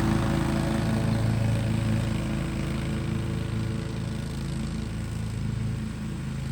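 Husqvarna zero-turn mower's engine running steadily under load through wet grass, slowly growing fainter.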